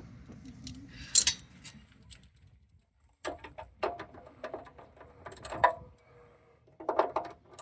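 Ratchet socket wrench being worked in short strokes, its pawl clicking in quick runs, with a couple of pauses between bursts.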